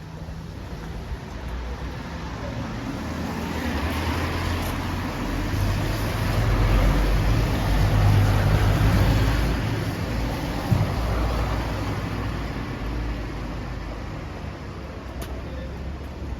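A motor vehicle passing slowly close by on a wet street: its engine hum and tyre hiss build up to a peak about eight seconds in, then fade away.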